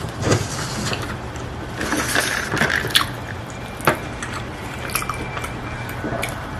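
Close-miked mukbang eating sounds: wet chewing and slurping with several sharp mouth smacks.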